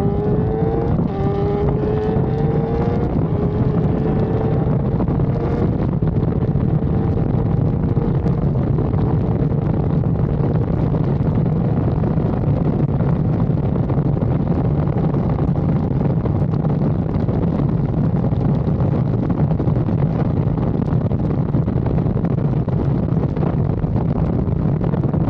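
BMW S1000RR's inline-four engine accelerating: its pitch rises, dips at a gear shift about a second in, then climbs again. After that, heavy steady wind noise on the microphone at speed covers the engine, which is left faint underneath.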